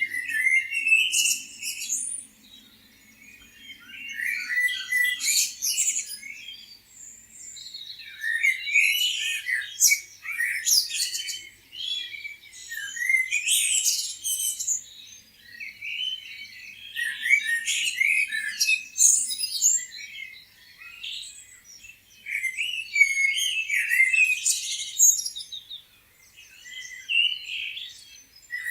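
Several small songbirds chirping and twittering together in bouts of a few seconds, with short quieter lulls between them.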